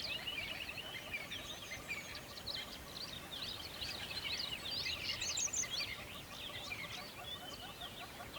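Many birds singing and chirping at once: a dense, overlapping chorus of quick high chirps and sweeping notes with no break. Beneath it runs a steady low rush from the river.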